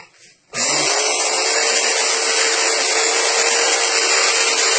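Black & Decker half-inch belt sander switched on about half a second in, spinning up and then running steadily with a steady whine.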